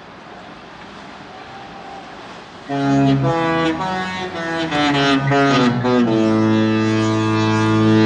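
Cruise ship's horn sounding a short multi-note tune about three seconds in. Several pitches sound together and step through changing notes, then settle on a long held chord, over a steady background hiss.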